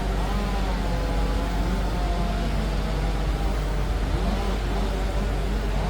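Liebherr PR 746 crawler dozer's diesel engine running steadily, a constant low rumble with a few higher tones that rise and fall over it.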